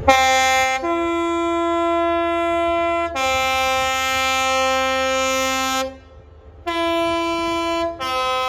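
Class 43 HST power car's two-tone horn sounded in a long series of blasts, alternating between its high and low notes with a brief break partway through, over the low rumble of the train.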